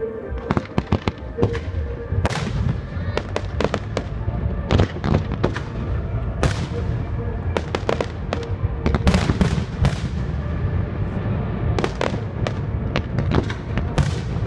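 Fireworks display: a rapid run of sharp bangs and crackles from bursting shells and comets, many a second, over a continuous low rumble.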